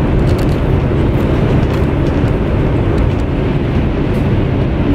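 Steady low rumble of a high-speed train running, heard inside the passenger carriage, with a few faint clicks over it.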